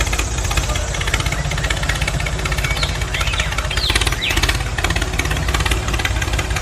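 Small engine of a homemade mini tractor running steadily with a rapid, even chugging, with a few brief high squeaks in the middle.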